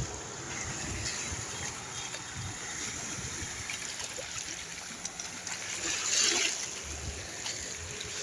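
Small waves lapping and washing at the shoreline, a soft steady wash with a slightly louder surge about six seconds in.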